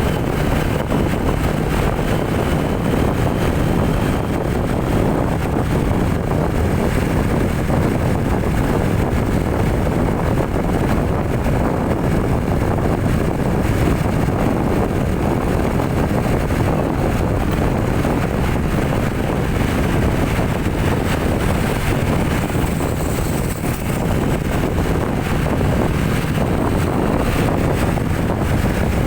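Steady low engine and road noise of a vehicle on the move, with wind buffeting the microphone.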